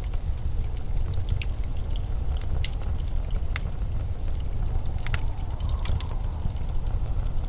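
Wind blowing as a steady low rumble, with scattered sharp crackling clicks throughout and a faint higher whistle about five to six seconds in.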